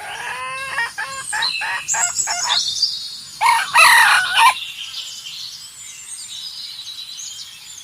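Chickens calling: a run of short clucking calls, then a louder rooster crow about three and a half seconds in. High thin chirps of small birds or chicks carry on under and after.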